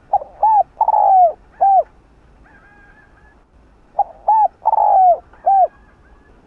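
Spotted dove cooing: two phrases about four seconds apart, each of four notes, the third note the longest and falling in pitch.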